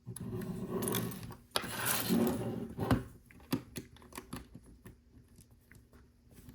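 Small plastic Lego pieces being handled and pressed onto a model: about three seconds of rattling and clattering, then scattered light clicks.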